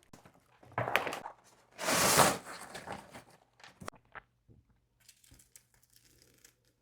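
Fast-food paper packaging being handled and opened: a few short crinkling, rustling bursts, the loudest about two seconds in, then only faint small clicks.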